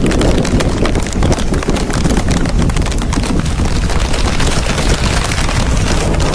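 Strong wind buffeting the microphone, with a dense rapid crackle running through it.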